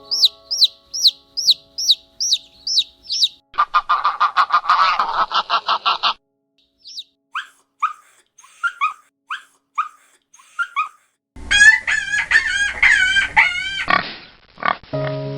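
A series of different bird calls cut one after another: a run of repeated high falling chirps, a buzzy rhythmic stretch like fowl clucking, scattered short chirps, then a warbling call. Steady tones come in near the end.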